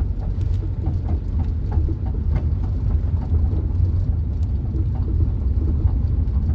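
Road noise inside a moving car: a steady low rumble with scattered light ticks.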